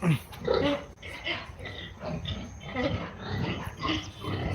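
Pigs grunting in short, irregular bursts, several animals at once.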